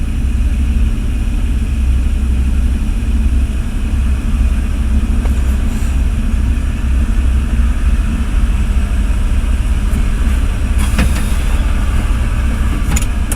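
Ford F-350's 460 cubic inch big-block V8 heard from inside the cab, idling with a steady low rumble. A couple of brief clicks come near the end.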